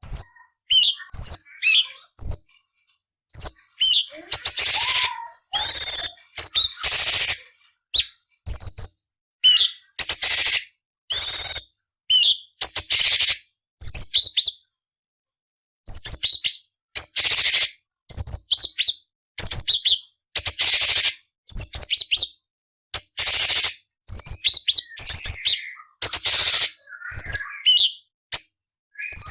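Orange-bellied leafbird (cucak cungkok) singing a fast run of high whistled and chirping notes mixed with harsh, rasping calls, with a pause of about a second midway.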